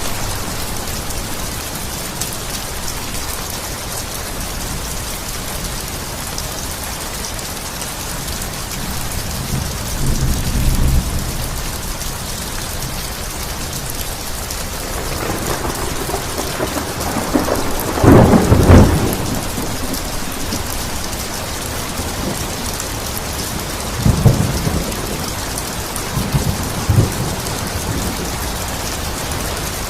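Steady rain with thunder: a low rumble about ten seconds in, a loud thunderclap a little past halfway, and two shorter cracks near the end.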